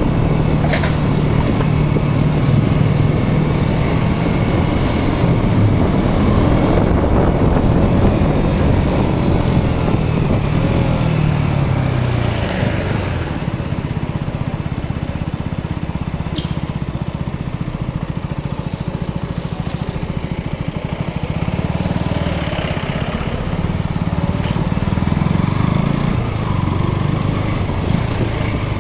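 Motorcycle engine running under way, its note rising and falling with the throttle and dropping off about ten seconds in.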